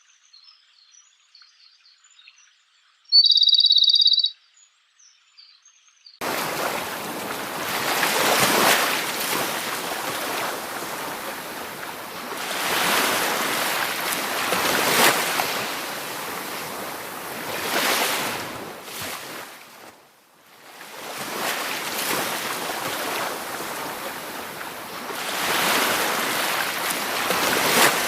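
Faint birds chirping, with one loud, steady, high-pitched call about three seconds in. Then, about six seconds in, the sound cuts abruptly to loud rushing water that swells and fades every few seconds.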